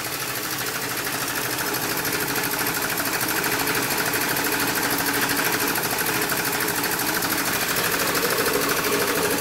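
Small air compressor running with a fast, even mechanical chatter as it slowly pumps up the tank it sits on, building pressure a little louder over the first couple of seconds.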